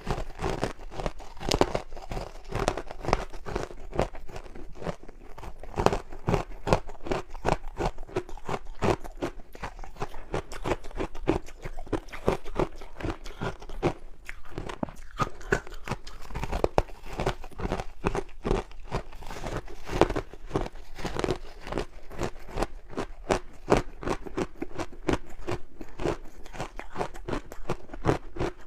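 Crunchy ice coated in matcha powder being bitten and chewed: a dense, continuous run of crisp crunches, several a second.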